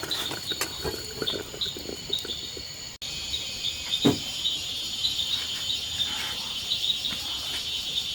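Insects chirping in chorus: a steady high whine with rows of short, rapidly repeated chirps, and a few faint knocks.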